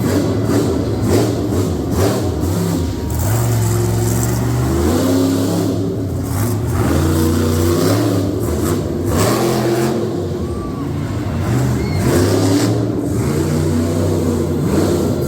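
Monster truck engines revving hard, their pitch repeatedly climbing and dropping as the throttle is worked.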